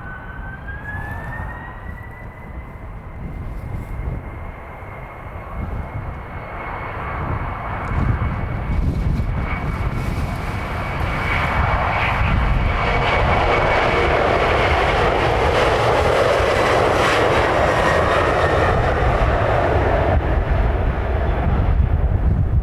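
Boeing 767's jet engines spooling up for takeoff: a whine rises in pitch in the first second, then the engine noise builds from about eight seconds in and stays loud near the end.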